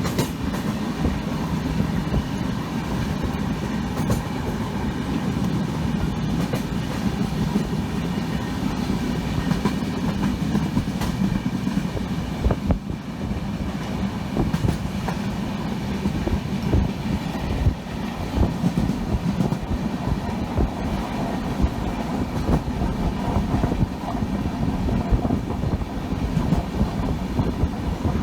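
Indian Railways passenger train running, a steady rumble with the clickety-clack of its wheels knocking over the rail joints.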